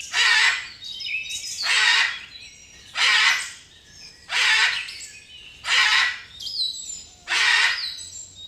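A bird giving harsh, rasping calls, six in a row at an even pace of about one every second and a half. Small birds chirp between the calls.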